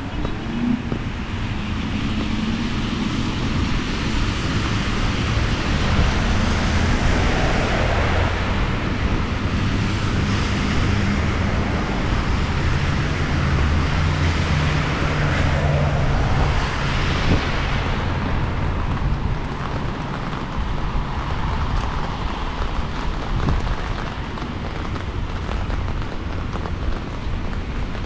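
Street traffic on a wet road: engine hum and tyre hiss that swell as vehicles pass, with wind buffeting the microphone.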